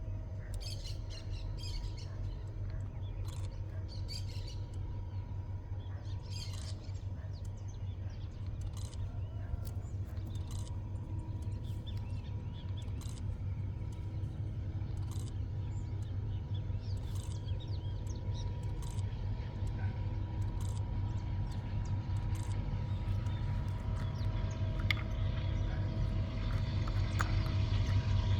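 Birds chirping in short bursts over a steady low engine hum that carries a few steady tones. The hum grows louder in the last few seconds.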